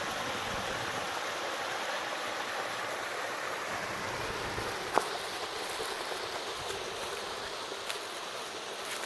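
Water running steadily in a partly frozen creek. A single sharp click about five seconds in.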